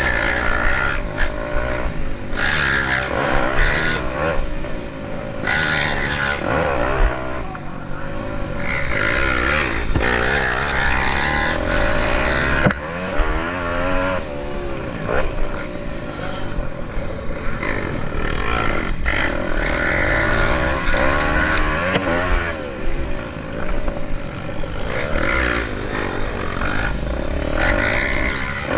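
Several pit bike engines racing together, their engine notes repeatedly rising and falling in pitch as the riders rev, shift and back off.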